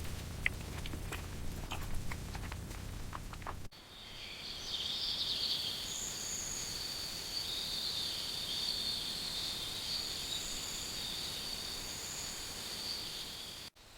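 Insects chirring in a steady high chorus, entering abruptly about four seconds in and stopping abruptly just before the end. Before it, sharp crackles and pops sound over a low rumble.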